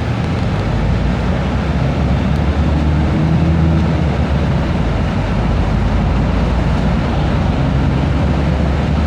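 Steady low rumble, like a vehicle running, with a noisy hiss over it.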